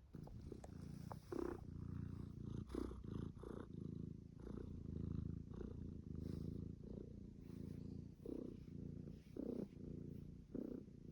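Domestic cat purring steadily, with a few brief soft sounds over it.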